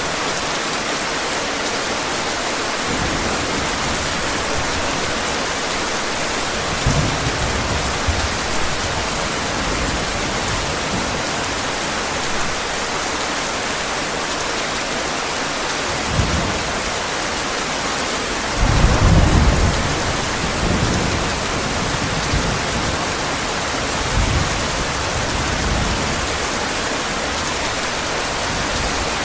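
Steady heavy rain with thunder rumbling low several times, the loudest roll about two-thirds of the way through.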